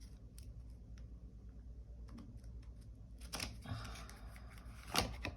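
Tarot cards being handled on a table: faint scattered clicks and taps, a short rustle of cards sliding about three and a half seconds in, and a sharper tap about five seconds in.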